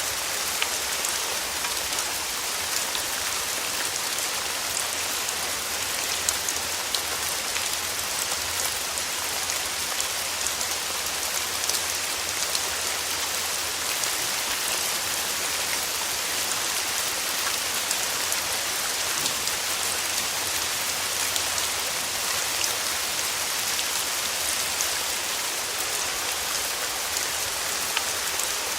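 Steady rain falling: an even hiss peppered with many small drop ticks.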